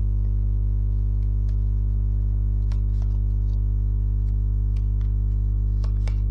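Steady low drone of several sustained tones, unchanging throughout, with a few faint soft clicks.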